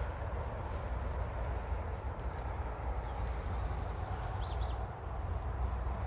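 A small songbird gives a quick run of about six high chirps, about four seconds in, over a steady low rumble.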